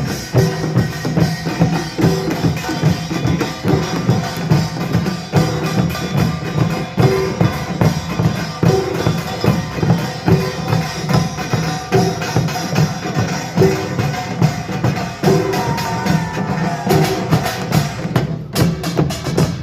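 Korean pungmul percussion ensemble playing a fast, driving rhythm: janggu and buk drums beating steady repeated strokes under the clangour of small gongs.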